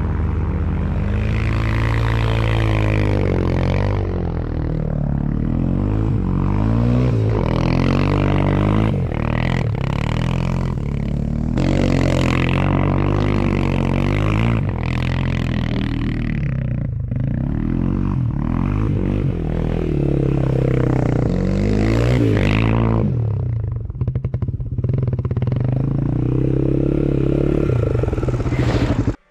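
Small single-cylinder off-road engine revving up and down again and again under riding, its pitch rising and falling every second or two. The sound cuts off abruptly at the end.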